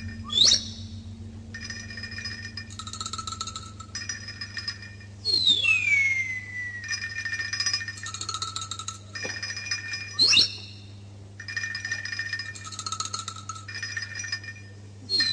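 Dance accompaniment track of bird-like chirping and whistles: short repeated chirp figures in bursts, with a quick rising whistle about half a second in and again about ten seconds in, and a long falling whistle about five seconds in and again at the end, over a steady low hum.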